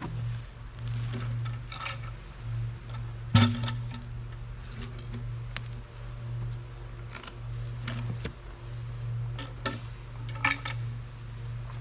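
A steady low engine drone with scattered metallic clanks and knocks, the loudest about three and a half seconds in.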